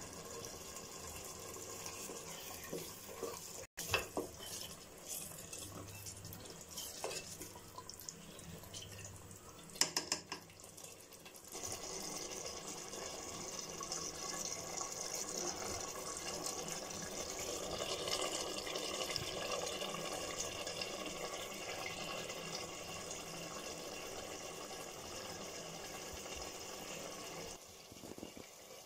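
Vegetables, green peas and green masala paste sizzling in oil in an open pressure cooker pot as they sauté, with a few knocks of the stirring ladle against the pot in the first ten seconds. About eleven seconds in the sizzle becomes louder and steady.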